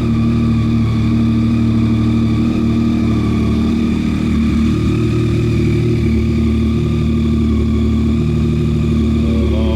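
Yamaha Tracer 9 GT's 890 cc inline three-cylinder engine running steadily, just started after an oil change with the oil pressure light off.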